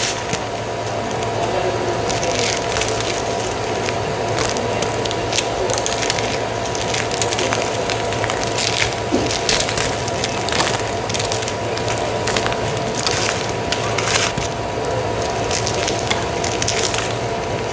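A steady machine hum with a pitched whine, overlaid by irregular crackling and crunching clicks.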